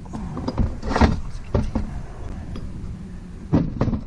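Short clicks and knocks of small metal parts being handled while valve gear is taken out of an ATV cylinder head: several in the first two seconds, then two sharper ones near the end, over a steady low hum.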